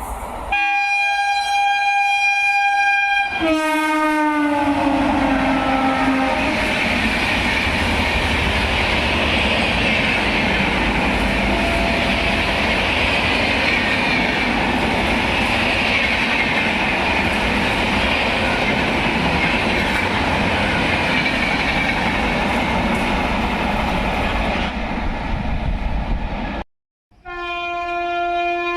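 Electric locomotive horn blowing steadily, then a horn that drops in pitch as the train passes. The train then goes by at speed for about twenty seconds: a steady rumble and rush of wheels with rail clatter. Near the end the sound cuts off briefly and a steady horn blast starts.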